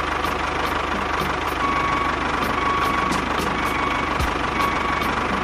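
An engine idling steadily at an even speed, with a faint regular ticking.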